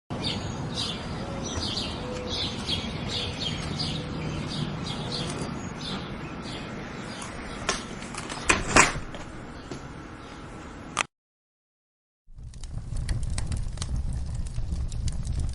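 A run of short, high chirps over a steady hiss, with a few sharp clicks, cuts off suddenly. About a second later a wood fire in a fireplace starts crackling and popping over a low rumble.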